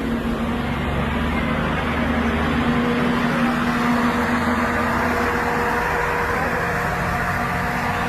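A heavy machine's engine running steadily, a constant hum with a held tone over mechanical noise.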